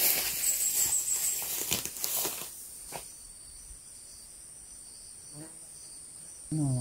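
Steady high-pitched shrilling of insects. Rustling, crumpling handling noise covers the first two and a half seconds, then the insect tone carries on alone at a low level.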